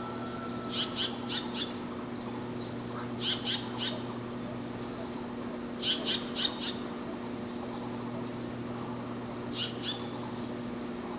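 A bird calling in short quick runs of three or four high notes, repeated every two or three seconds, over a steady low hum.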